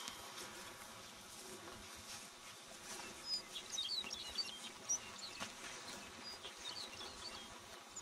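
Scattered high chirps from a small bird between about three and seven seconds in, over a faint steady hum.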